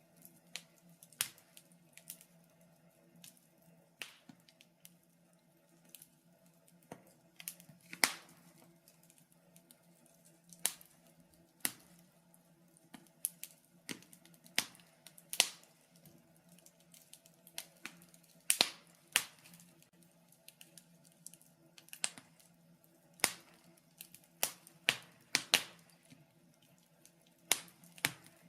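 Wood fire crackling in a fireplace: irregular sharp pops and snaps, one every second or so, some louder than others, over a faint steady low hum.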